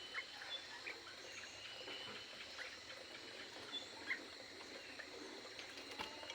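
Aviary birds chirping and calling: many short, overlapping chirps and brief whistles scattered throughout, over a faint steady high tone.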